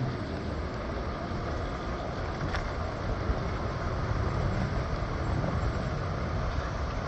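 Steady rumble and noise of a moving vehicle, with one brief click about two and a half seconds in.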